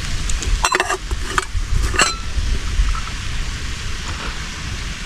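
Food sizzling in a pan over a campfire, with a few sharp clinks and scrapes of a utensil against the pan in the first two seconds.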